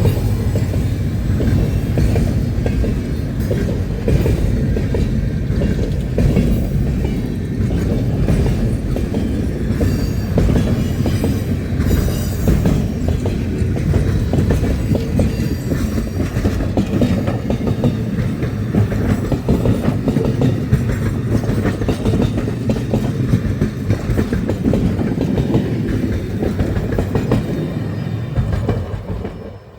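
Train cars rolling past at close range: a loud, steady rumble with the clatter of wheels over the rails. The sound drops off sharply near the end.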